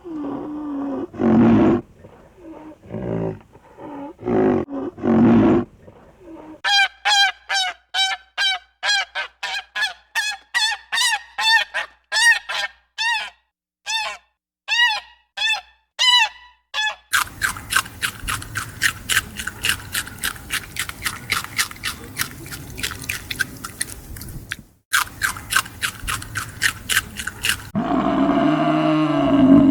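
A series of short, repeated honking calls from a bird, coming about two a second, between low animal calls at the start and a dense rapid rattle of pulses in the second half. A new low call begins near the end.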